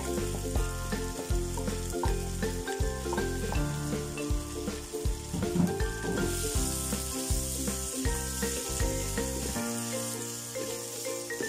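Pieces of pork belly sizzling as they fry in hot oil in a wok, the sizzle growing louder about halfway through, with a wooden spatula stirring them near the end. Background music with a steady beat plays throughout.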